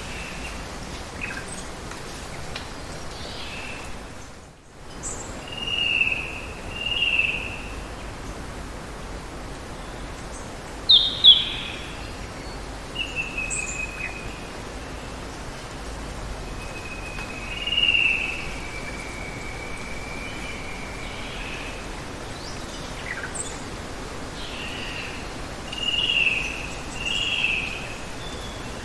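Steady hiss of running water with forest birds calling now and then: a pair of calls about six seconds in, a sharp loud call about eleven seconds in, a long drawn-out call around eighteen seconds, and another pair near the end. The background briefly drops out about four and a half seconds in.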